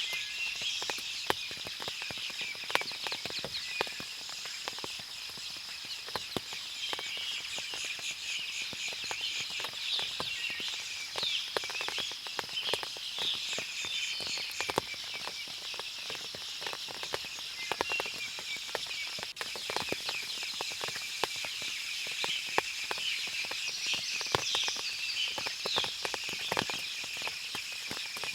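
Forest ambience after rain: birds chirping over a steady high-pitched hum, with frequent light ticks and taps throughout.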